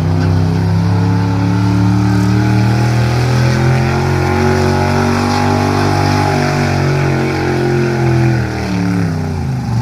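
Gasoline pickup truck engine running hard, its pitch climbing slowly and then dropping away near the end.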